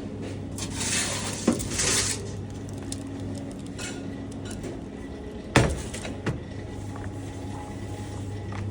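Kitchenware being handled during food preparation: two brief rustling, hissing noises, then sharp knocks as something is set down on a hard surface, the loudest about five and a half seconds in, over a steady low hum.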